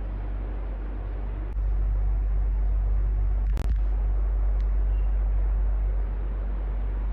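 Electric fan running steadily: a continuous airy whoosh over a low hum. The low rumble grows louder about a second and a half in and eases back about six seconds in, with one sharp click near the middle.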